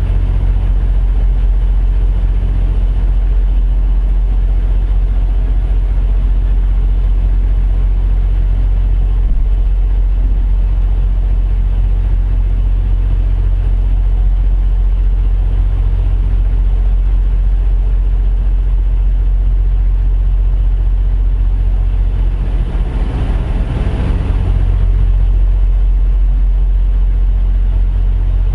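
Semi-truck diesel engine running at a steady idle, a constant low rumble. About three-quarters of the way through, more engine noise swells briefly and then settles back.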